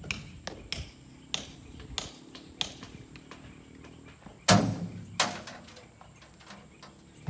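A series of sharp knocks and taps at an uneven pace, with a much louder thump about four and a half seconds in and another knock soon after.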